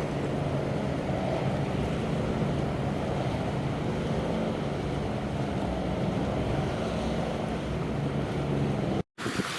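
A container ship's engine runs with a steady low hum under a dense rush of strong wind and sea. The sound cuts out briefly near the end, and gusts of wind then buffet the microphone.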